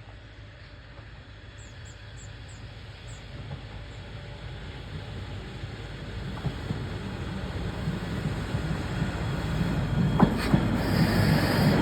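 Diesel railcar approaching along the track, its rumble growing steadily louder, with a short squeal about ten seconds in.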